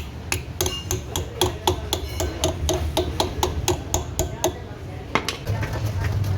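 Rapid hammer blows on metal, about four or five a second with a short ring after each, stopping about four and a half seconds in; one more sharp knock follows about a second later.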